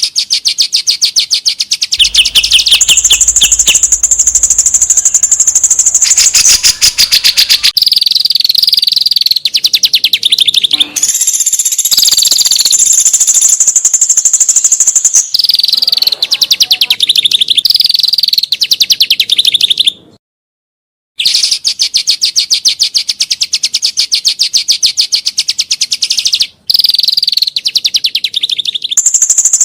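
Songbird 'materi' (training song recording): loud, fast, repeated chattering trills and high whistled phrases, rough and clear notes spliced one after another. Cuts to silence for about a second after twenty seconds in.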